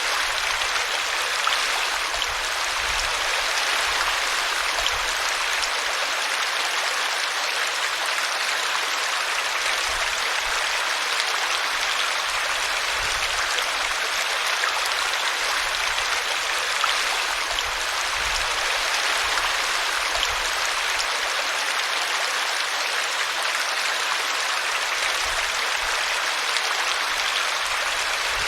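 Small brook rushing and splashing as it spills over a tree root, a steady babble of running water.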